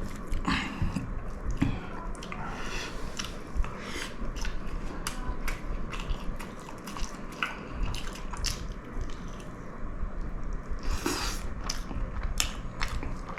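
A person chewing a mouthful of pulao with chicken curry and potato close to the microphone: irregular small wet mouth clicks and smacks.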